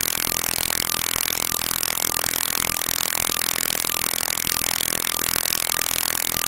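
Small Cape Air propeller plane's engines running steadily, a constant, dense engine and propeller noise.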